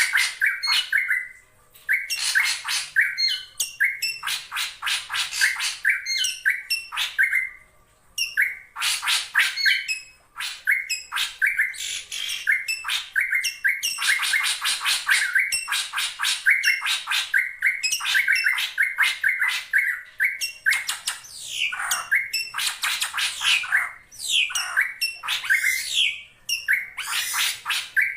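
Drongo calling in rapid, dense runs of short notes, scratchy calls mixed with whistled phrases, broken by a few brief pauses. This is the call used to lure in rival drongos.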